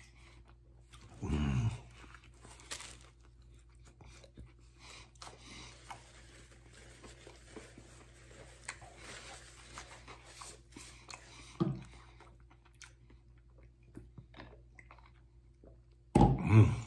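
Close-up chewing of a vegetable-filled sub sandwich, with soft wet crunches from the fresh lettuce, pickles and cucumbers. A few short low hums come from the eater, about a second in, near twelve seconds, and a louder one near the end.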